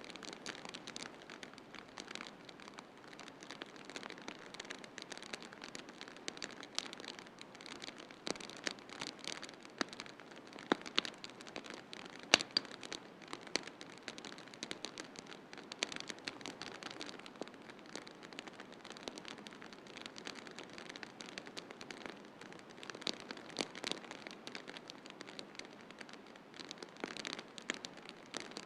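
Wood fire crackling in a fireplace: irregular sharp pops and snaps over a steady soft hiss, with one louder pop about twelve seconds in.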